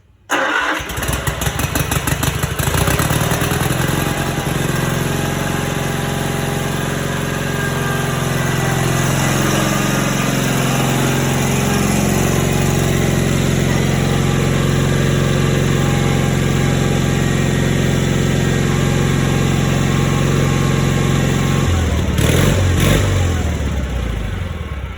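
Cub Cadet 782 garden tractor's Onan twin-cylinder engine starting: it catches almost at once, about half a second in, and runs steadily. Its note changes near the end, and it dies away as it is shut off.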